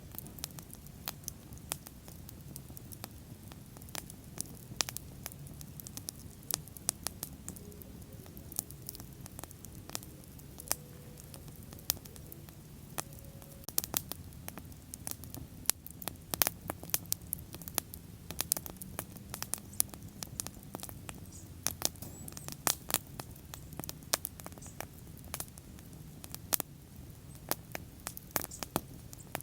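Wood bonfire burning, with irregular sharp crackles and pops, many per second at times, over a steady low rumble of the flames.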